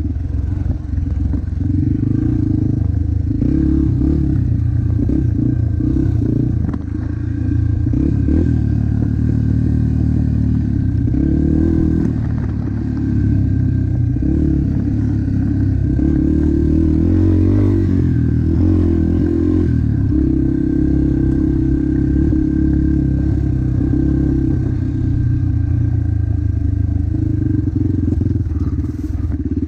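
Motocross bike engine running hard as it is ridden, the revs rising and falling continuously without a break.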